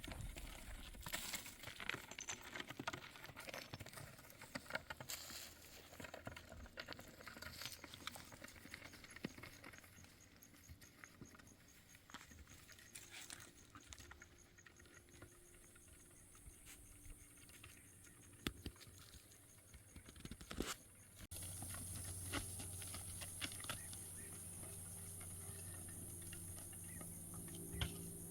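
Scattered light taps and clicks with soft rustling. About two-thirds of the way through they give way suddenly to a steady low hum and hiss.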